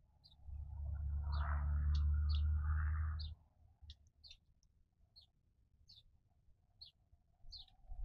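A small bird chirping over and over, about two short high chirps a second. Near the start, a gust of wind rumbles on the microphone for about three seconds.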